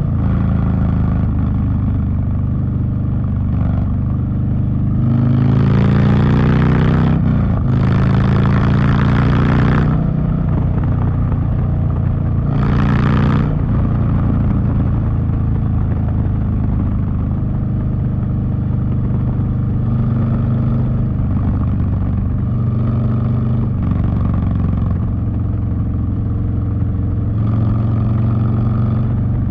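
Harley-Davidson Street Bob's V-twin engine running through a Two Brothers Racing 2-into-1 exhaust while riding, mostly holding a steady cruise. The pitch rises under throttle about five to ten seconds in, with a short break near seven seconds like a gear change, and there is another brief burst of throttle around thirteen seconds.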